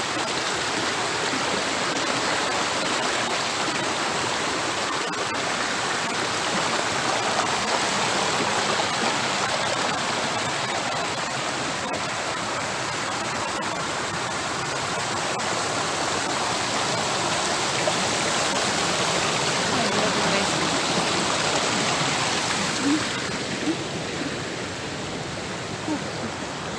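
Steady rush of fast-flowing water from a waterfall and its burn, easing a little near the end.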